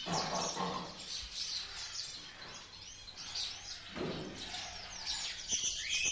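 Many small caged pet birds chirping at once, a dense overlapping chatter of short, high calls.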